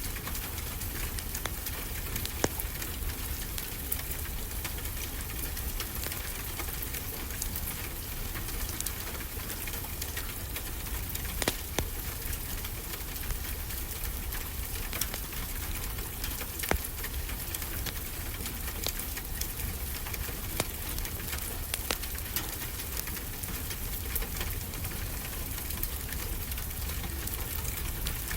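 Steady rain with a low rumble underneath, mixed with a fireplace crackling: scattered small clicks and a few sharper pops.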